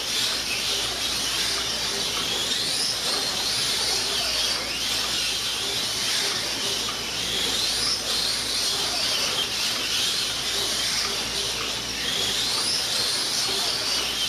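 Electric motors of 1/24 scale slot cars whining around the track during a race. The pitch rises in repeated sweeps every few seconds as the cars accelerate.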